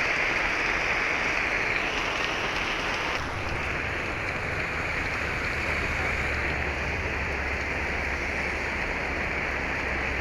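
Very heavy rain pouring steadily, with a low rumble joining in about three seconds in.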